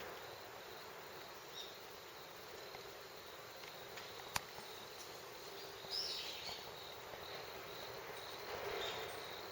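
Faint steady insect sound with a thin high tone that comes and goes. A brief high chirp comes about six seconds in, and a single sharp click comes a little past four seconds.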